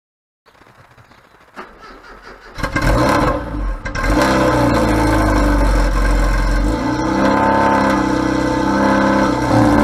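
Classic Mini engine being started: faint clicks first, then it cranks and catches about two and a half seconds in and settles into a steady run.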